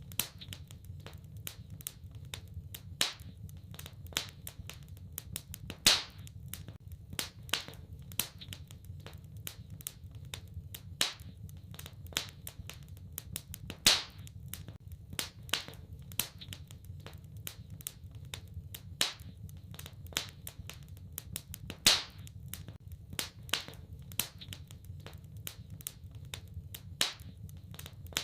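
Fire in a fireplace crackling, with many sharp pops and a few louder ones every several seconds, over a low steady rumble.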